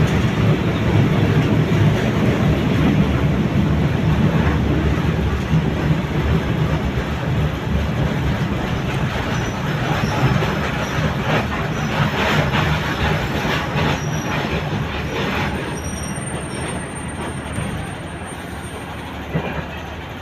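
Passenger train running slowly into a station and coming almost to a stop, heard from an open carriage window: a steady low rumble of wheels and running gear, with a stretch of clattering near the middle, that grows quieter over the last few seconds as the train slows.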